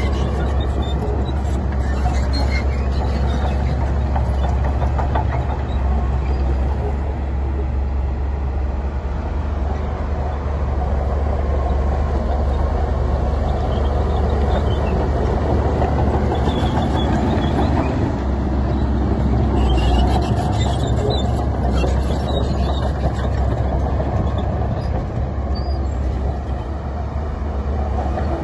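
Heavy diesel earthmoving machinery, a bulldozer working among dump trucks, running steadily with a deep engine drone, and scattered metallic clanks about a second in and again around twenty seconds in.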